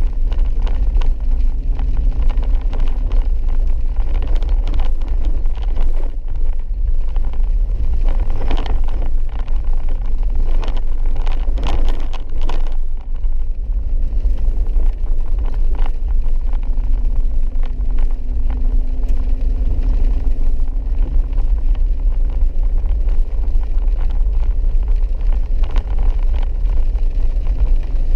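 A four-wheel-drive vehicle driving a wet dirt road: a steady low rumble of engine and tyres, with brief rattles and knocks around the middle.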